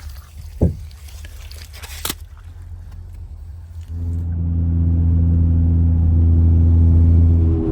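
A quiet low rumble with a knock and a click, then about four seconds in a loud, steady low droning tone cuts in and holds without change.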